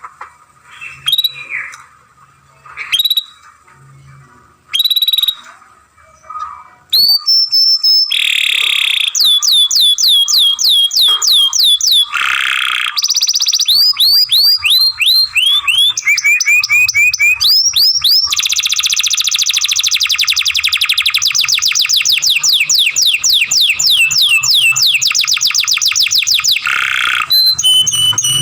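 Domestic canary singing. A few short separate whistled calls come first, then from about seven seconds in a long unbroken song of rapidly repeated sweeping notes and trills.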